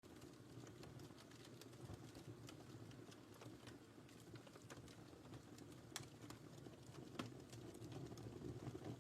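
Faint wood fire crackling: a steady low rumble of burning with scattered sharp pops, the two loudest about six and seven seconds in.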